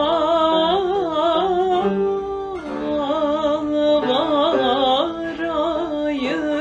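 A woman singing a long ornamented, melismatic line with a wavering vibrato in a Turkish art song, over a soft string accompaniment.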